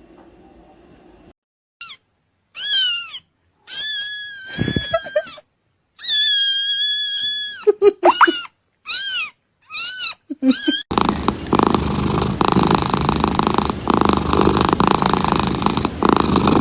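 A cat meowing about ten times in high-pitched, arching calls, one of them drawn out. Then, close up, loud steady rough purring.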